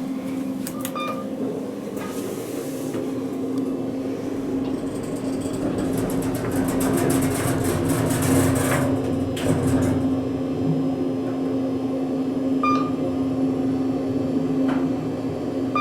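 Steady low hum of an airliner cabin's air-conditioning and electrical systems on the ground, with scattered clicks, a stretch of rustling in the middle and a few short high beeps.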